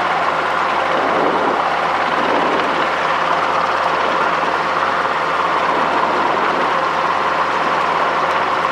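Robinson R22 helicopter running, heard as a steady, even drone of engine and rotor noise in the cabin.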